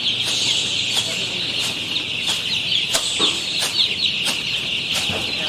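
A crowded flock of chickens in a poultry shed, many birds peeping and clucking at once in a steady high chorus. Sharp clicks come through it two or three times a second.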